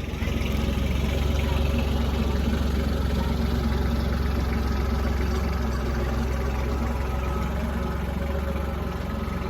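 Kubota L-series tractor's diesel engine running steadily at idle.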